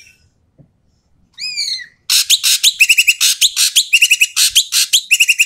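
An ekek keling bird calling loudly and harshly. It gives a single down-slurred whistle about a second in, then a rapid run of rasping calls mixed with short rattling trills, about three a second.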